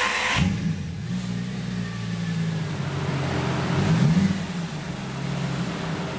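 Lamborghini Gallardo V10 through a Guerrilla bypass exhaust, just started. Its loud start-up flare drops away in the first half second, then it settles to a steady idle. One short rev blip comes about four seconds in.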